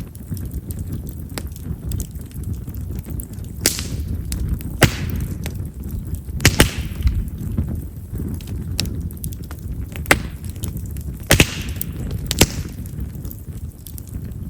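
Chestnut firewood burning in an open campfire: a steady low rumble of flame with sharp pops every second or two. A couple of the louder pops are followed by about a second of hiss. Chestnut is known for popping this way because of its large wood vessels.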